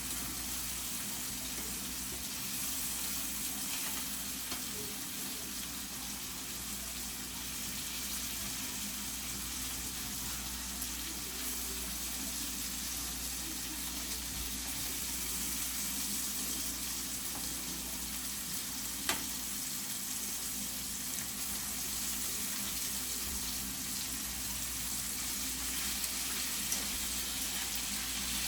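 Chicken frying in a pan, a steady sizzle, with one sharp click about two-thirds of the way through.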